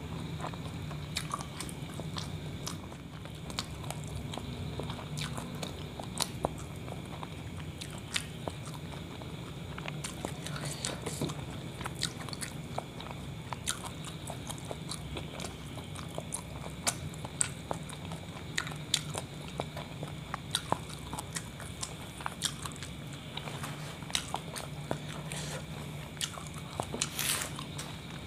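Close-miked chewing of a kebab wrap: many short, sharp wet mouth clicks and smacks over a steady low hum.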